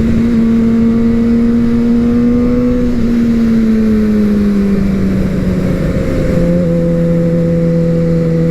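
Suzuki GSX-R750 inline-four sport bike engine running while riding, with wind rush on the microphone. Its note holds steady, then drops gradually from about three seconds in as the engine slows, and settles at a lower steady pitch.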